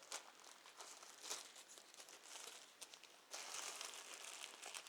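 Plastic bagel bag crinkling as it is handled, with faint crackles and rustles that grow louder about two-thirds of the way through.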